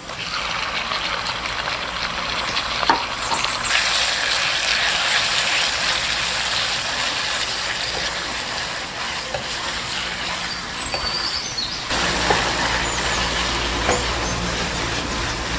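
Food sizzling and frying in a hot pan, with a few sharp clicks of a utensil against the pan.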